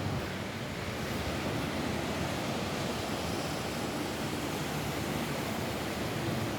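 Steady rain falling on a roof, an even hiss that neither rises nor falls.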